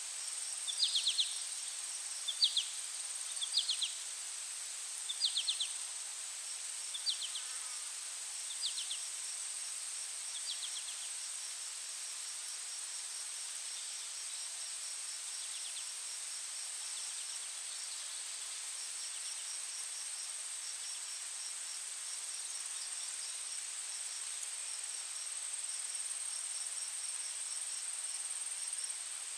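A steady, high-pitched trill of crickets or similar insects, with a fainter rapid ticking chirp beside it. Over the first ten seconds or so, a bird repeats a short, sharp call about every second and a half, growing fainter before it stops.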